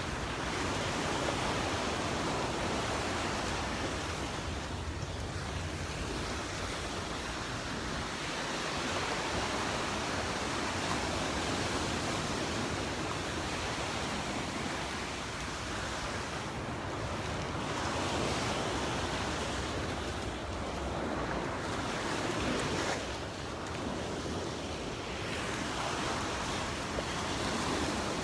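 Gulf of Mexico surf washing onto a sandy beach: a steady rush of breaking waves that swells and eases every few seconds.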